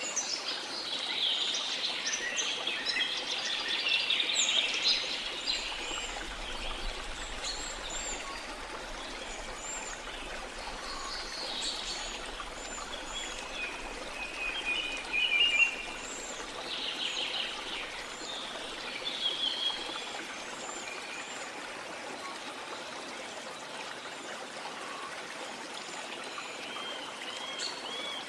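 Many birds chirping and calling over a steady rush of flowing water. The calls are busiest in the first few seconds and again between about ten and twenty seconds in, then thin out, leaving mostly the water.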